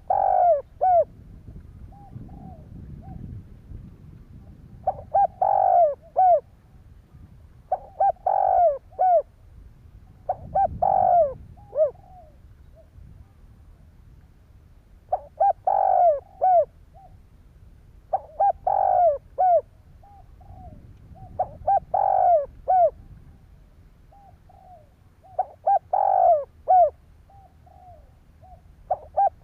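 Spotted dove cooing: about nine loud coo phrases, each a quick run of short hoots, repeated every few seconds, with softer single coos between them.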